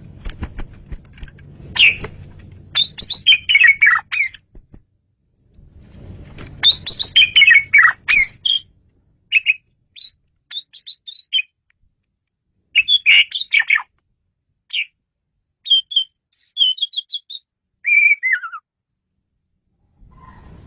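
Male Asian pied starling (jalak suren) singing: phrases of loud, clear whistles and chattering notes separated by short pauses, ending with a falling run of notes. A low rumble of background noise lies under the first two phrases.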